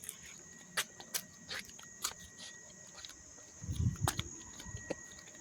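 Quiet outdoor ambience: a faint steady high-pitched insect hum, with scattered irregular light clicks and a soft dull thump about four seconds in.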